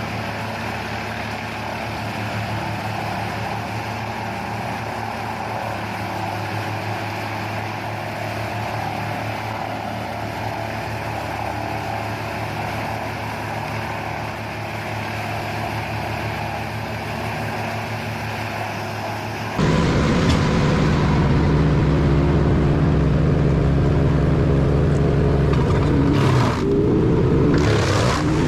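Wood chipper running steadily with a constant engine hum. About twenty seconds in, the sound jumps abruptly to a louder, heavier running.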